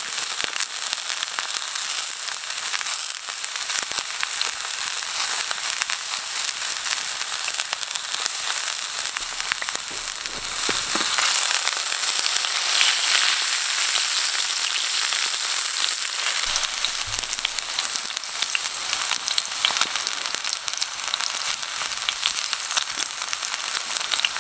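Ribeye steak searing in butter in a cast iron pan: a steady sizzle with frequent small spitting pops, a little louder for a few seconds about halfway through.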